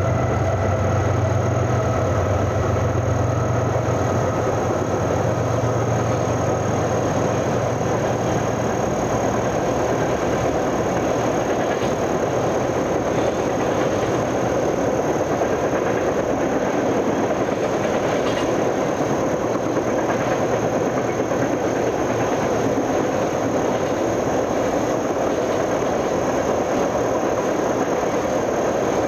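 A train passing close by: a locomotive's engine hum fades over the first several seconds, then the cars roll past with a steady rumble and rattle.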